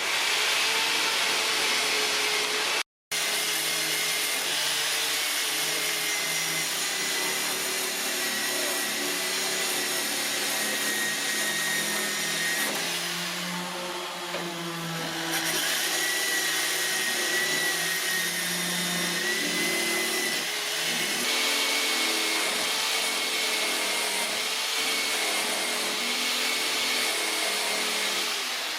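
Electric power tool running continuously, its motor whine wavering in pitch as it is worked, with a brief break about three seconds in.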